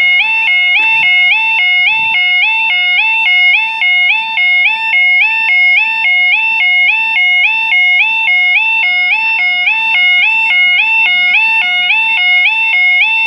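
Level crossing audible warning alarm sounding, the signal that a train is approaching and the barriers are down or lowering: a loud electronic two-tone warble that switches between a lower and a higher note about twice a second.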